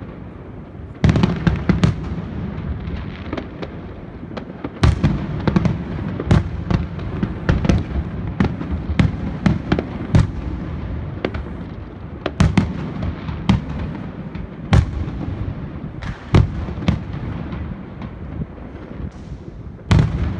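Fireworks display: aerial shells bursting in quick irregular succession, sharp bangs over a continuous rumble of crackling and echoing detonations, with dense salvos about a second in, near five seconds, around twelve seconds and at the very end.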